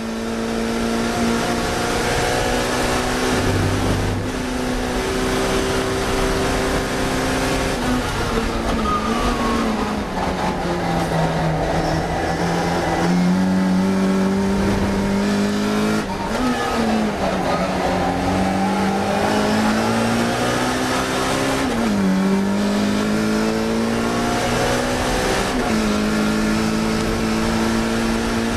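Classic Mini race car's four-cylinder engine heard on board at high revs. About eight seconds in the pitch falls, as under braking. It then climbs again, with quick breaks in the pitch at several gear changes.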